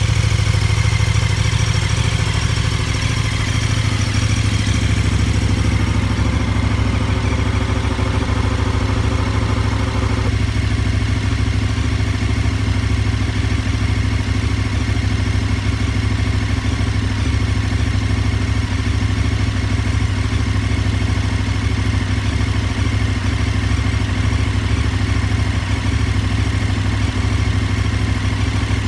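KTM 1290 Super Adventure S V-twin engine idling steadily through an Akrapovic end can, with no revving.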